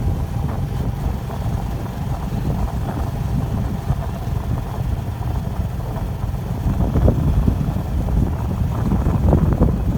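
Wind buffeting the microphone of a camera on a moving bicycle: a steady low rumble that grows louder about seven seconds in, with a few short knocks near the end.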